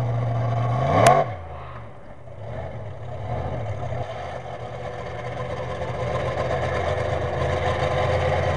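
Monster truck engine running. About a second in there is a sharp bang, and the engine note sweeps and falls away. It then builds back up gradually and runs steadily.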